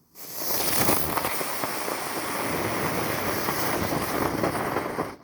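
'Vesyoly Zhuk' (Happy Beetle) ground-spinner firework whirling and spraying sparks, a steady dense hiss and crackle that starts a moment in and cuts off suddenly at the end.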